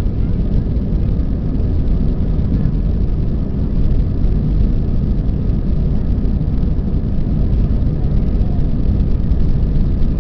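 Airbus A320 jet airliner during takeoff, its engines at high power: a loud, steady rumble, strongest in the low end, with no breaks.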